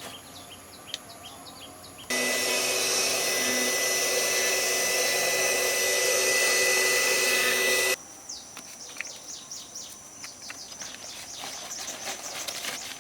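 Small birds chirping in quick repeated notes, broken by a loud steady rush of water running hard from a tap, which starts suddenly about two seconds in and stops suddenly about six seconds later. The chirping carries on afterwards with light clicks and knocks.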